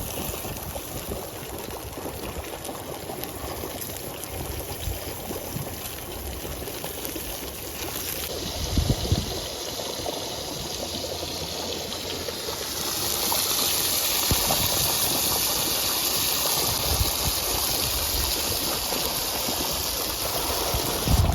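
Steady rushing noise like running water, growing louder and brighter about thirteen seconds in, with a few low thumps.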